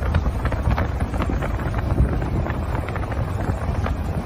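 Strong gusting wind buffeting the microphone: a heavy low rumble with scattered crackles.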